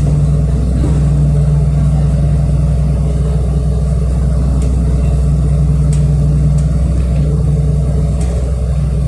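City bus engine and drivetrain running, a steady low drone heard from inside the passenger cabin while driving. A few faint rattles or clicks come through in the second half.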